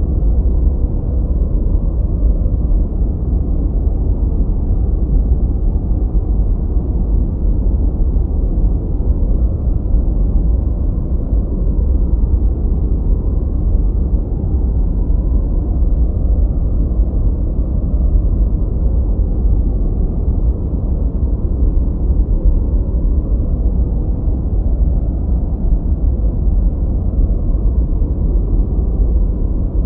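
Continuous generated noise, a steady deep rumble with its weight in the bass and nothing in the treble. It sounds more like brown noise than true white noise.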